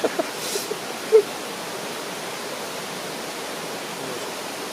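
Steady rushing of a mountain stream flowing over rocks. A few brief small sounds come in the first second, the loudest a short pitched note about a second in.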